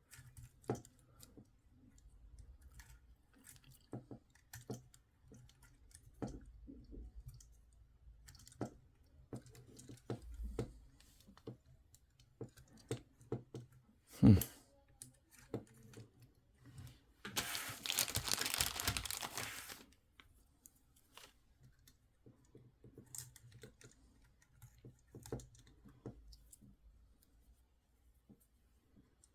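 Scattered small plastic clicks and taps from handling a Hailfire Droid toy and pushing its plastic missiles into the launcher, with one louder knock about halfway through and a couple of seconds of rustling a few seconds after that.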